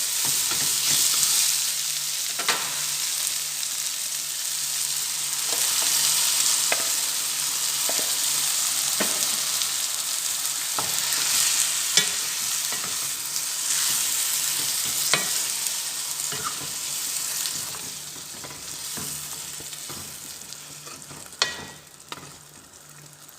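Chicken pieces and masala sizzling in oil in a pan as blended tomato goes in, stirred with a spoon that clicks and scrapes against the pan now and then. A steady low hum runs underneath, and the sizzle dies down over the last few seconds.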